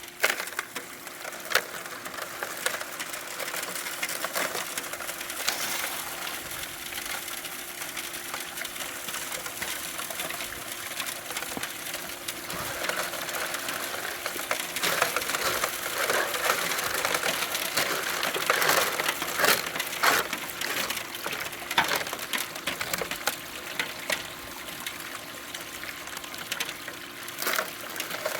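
Gravel and dirt rattling and scraping with many sharp clicks of small stones, over a steady hum of a small motor. This is pay dirt being run through prospecting equipment.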